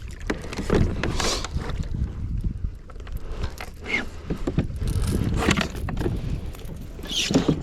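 Kayak on open water: short splashing surges every second or so, like a paddle dipping in, over a steady low rumble of wind on the microphone.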